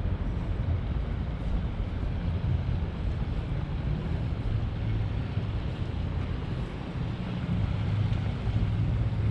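Steady low rumble of city background noise, with no single sound standing out.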